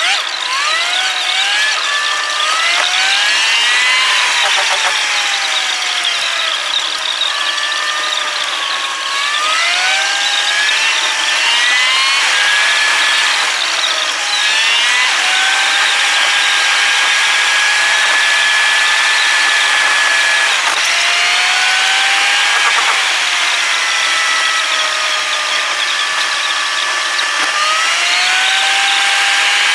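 Car engine heard from inside the cabin while driving at speed, its whine rising as it accelerates and dropping back several times, holding steady for several seconds in the middle, over steady road noise.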